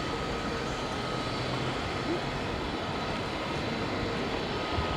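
Jet engines of an airliner on the ground running steadily at low power, an even rumble with no rise or fall.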